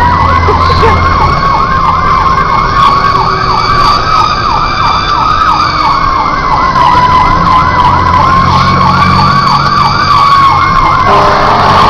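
Fire engine sirens on an emergency response: a steady high wail, drifting slightly in pitch, together with a fast electronic yelp repeating about four times a second.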